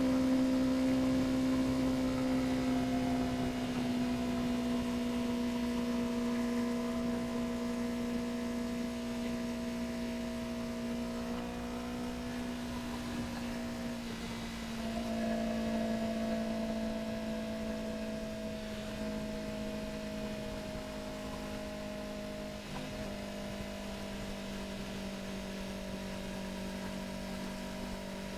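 Yamaha R3's 321 cc parallel-twin engine droning at a steady cruise, heard from on the motorcycle; its note slowly sinks, with two small changes in pitch partway through.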